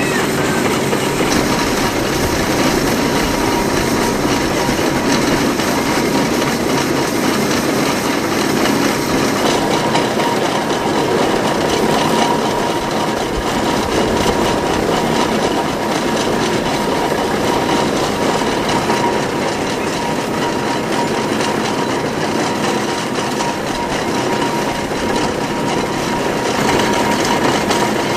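John Fowler BB1 steam ploughing engine winding in its cable on the winch drum, a steady mechanical clatter and rumble with a faint steady whine, hauling the cultivator back across the field.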